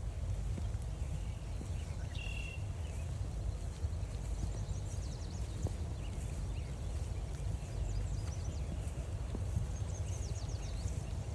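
Footsteps walking on a forest trail over a steady low rumble on the microphone, with birds calling faintly: a short whistled note about two seconds in, and quick runs of high chip notes around four to five seconds in and again near the end.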